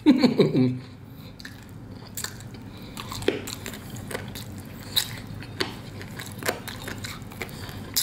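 Close-up chewing of crispy fried chicken drumstick meat, with scattered crunchy clicks from the mouth. A short hum from the eater about a second long opens it and is the loudest sound.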